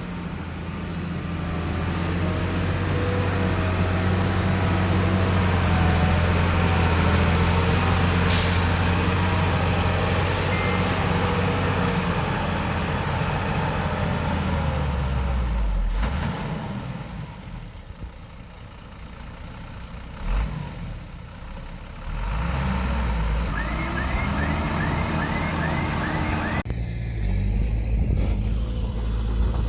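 Diesel engine of heavy earthmoving machinery running under load. It eases off a little past halfway and picks up again about six seconds later. There is a brief sharp hiss about eight seconds in.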